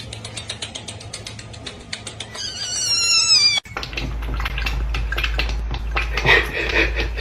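A cat's high meow, falling in pitch, about three seconds in, after a run of rapid ticks. The sound then cuts abruptly to a steady low hum with scattered clicks and short cries.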